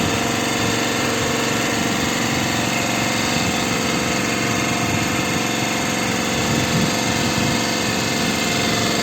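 Boat's engine running steadily at an even speed.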